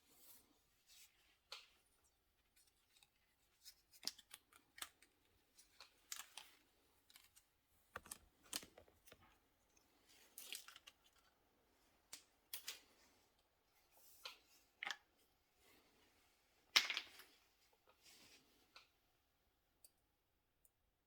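Faint, irregular sharp clicks and clinks, a few every couple of seconds, with the loudest one about seventeen seconds in.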